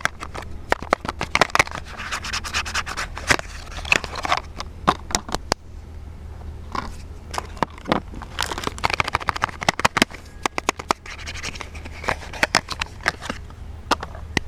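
Soap packaging being handled and unwrapped close to the microphone: wrapper crinkling and scratching with many sharp clicks and crackles, in uneven bursts with a brief lull about six seconds in.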